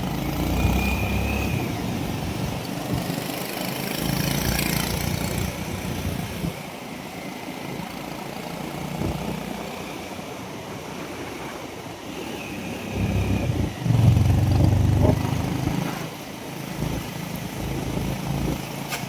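Motorcycle engine running during a ride, with road and wind rumble; the sound swells louder a few times, most strongly about fourteen seconds in.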